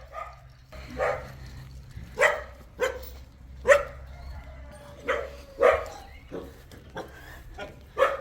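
A dog barking, about seven single barks spaced irregularly.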